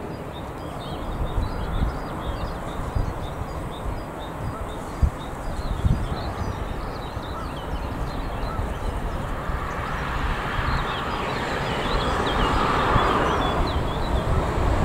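Wind buffeting the microphone and birds chirping. From about ten seconds in, the rising rumble of an approaching electric freight train, a red Siemens Vectron locomotive hauling container wagons.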